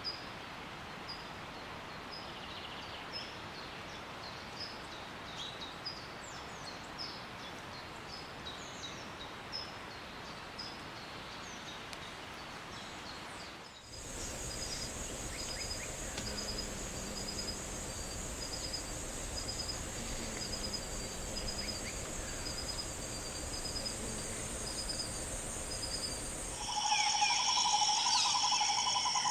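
Rainforest birds and insects in three abrupt sections. First, short high bird chirps repeat over a steady hiss. From about halfway, a constant high insect buzz runs with a bird's short notes repeated about twice a second. Near the end comes a louder, busier mix of several birds calling.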